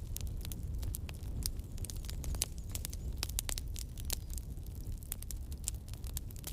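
Campfire burning, with frequent sharp, irregular crackles and pops over a steady low rumble.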